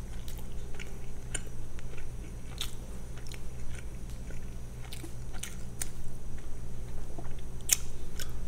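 A person chewing and biting a mouthful of food, with scattered short wet mouth clicks.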